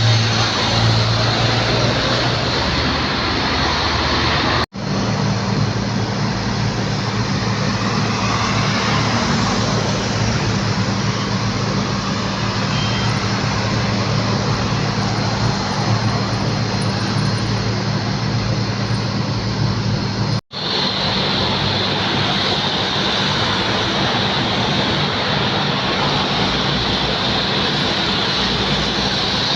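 Steady jet-engine noise from airliners, a dense even rush with a low hum underneath. The sound breaks twice, about five seconds in and about two-thirds of the way through, as the footage cuts from an Airbus A330-200 to one Airbus A320neo and then to another.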